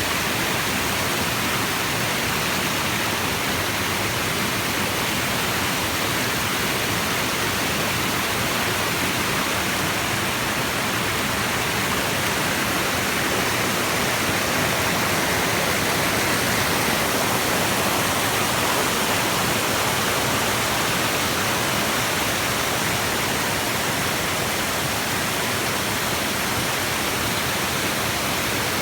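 Waterfall rushing steadily, a constant hiss of falling and splashing water.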